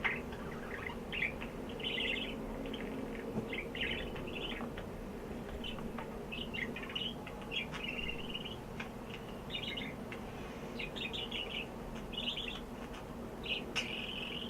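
Pet bird babbling: a string of short, irregular chirps and twitters, with a steady low hum underneath.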